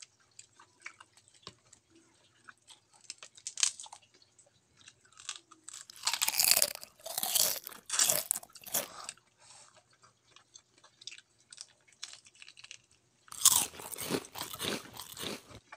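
Close-up chewing and crunching of shrimp eaten shell and all, with small clicks as the shells are peeled by hand. There are two louder spells of crunching, about six seconds in and again near the end.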